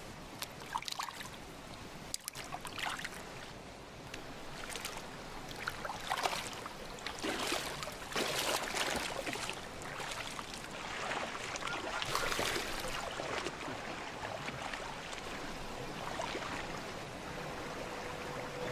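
Moving water with irregular splashes over a steady trickling background, the splashes coming thickest about halfway through.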